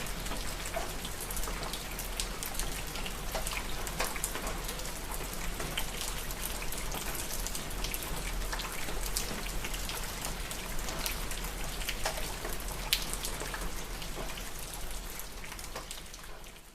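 Steady rain, with many individual drops ticking on a hard surface over the even patter. It fades out over the last couple of seconds.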